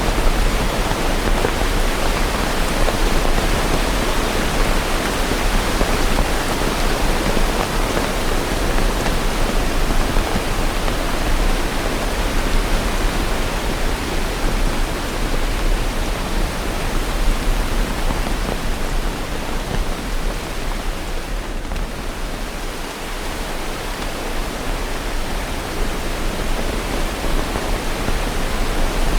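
Steady rain, a dense even hiss with no separate drops or thunder, dipping slightly in level about three-quarters of the way through.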